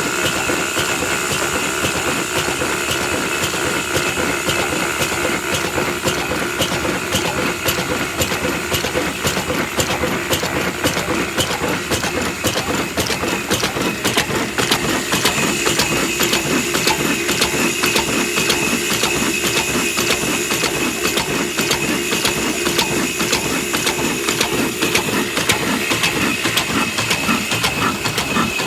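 Diesel engine running steadily with a fast, even clatter. A high whine above it rises in pitch about halfway through.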